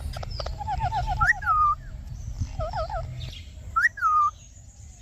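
Parrot chick calling: a quick trill of about eight short chirps, then several squeaky calls that rise and fall in pitch.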